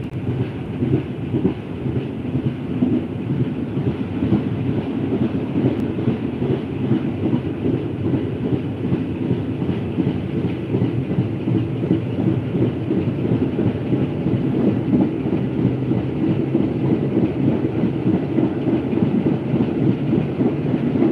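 A passenger train running along the track, heard from an open carriage window: a steady rumble of the wheels on the rails.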